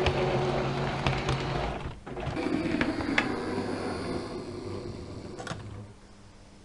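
Model train running on the track: a small motor hums steadily with light clicks of the wheels, then dies down near the end as the train moves off or slows.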